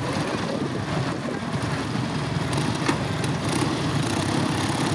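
Vintage motorcycle engine running steadily with a fast, even beat.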